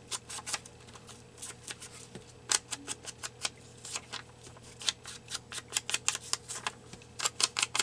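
An ink pad dabbed and dragged along the edges of paper, making quick, irregular taps and light scrapes, several a second, in clusters.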